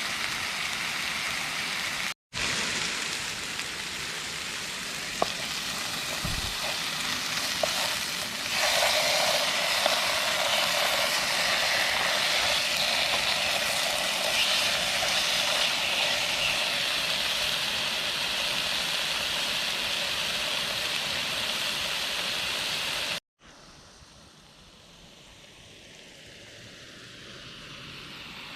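Lamb chops with shallots and mushrooms sizzling in a pan over a gas stove: a steady frying hiss that gets louder about eight seconds in, with a few light clicks. The sound cuts out briefly twice, and it is much quieter for the last few seconds.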